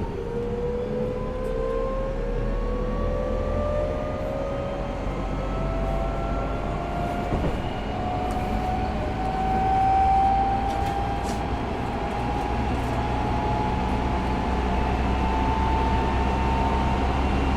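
Tokyo Metro 05 series subway train running, its Mitsubishi IGBT inverter and traction motors whining in a tone that climbs slowly and steadily as the train gains speed, over a low rumble of wheels on rail.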